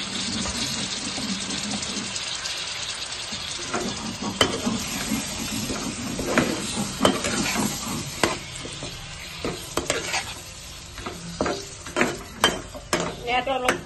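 Fish pieces sizzling in hot oil in a wok with green chillies and onion, stirred with a steel spatula. A steady sizzle at first; from about four seconds in, the spatula scrapes and knocks against the pan again and again, more often near the end.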